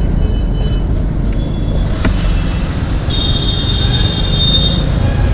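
Wind rush and road noise from a Yamaha R15 V4 motorcycle riding in traffic. A steady high-pitched squeal comes in about three seconds in and lasts about a second and a half.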